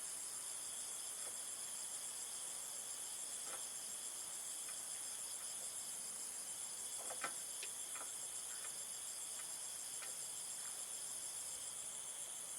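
Steady, high-pitched chorus of insects trilling without a break. A few light clicks or taps come through in the middle, the sharpest about seven seconds in.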